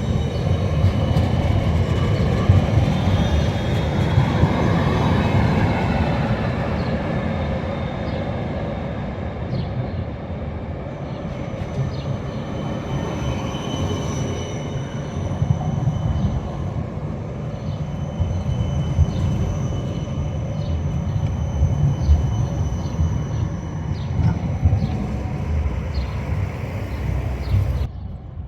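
Tram running on its rails: a steady low rumble with thin high whining tones over it, and a brief whine that bends up and down about four to six seconds in. The sound cuts off abruptly near the end.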